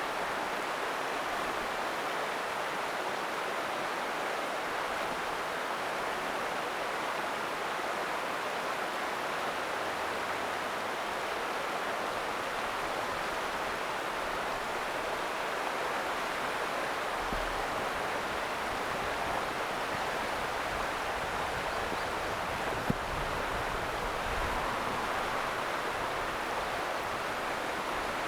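Ota River flowing, a steady rush of running water. A single sharp click about three-quarters of the way through.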